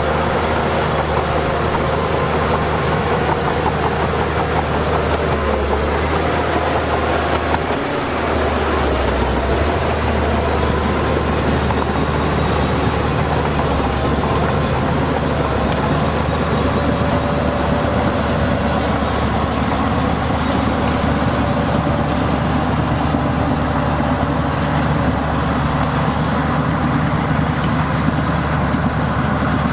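Heavy diesel earthmoving machinery running steadily under work, its low engine note holding through, with a brief change about eight seconds in.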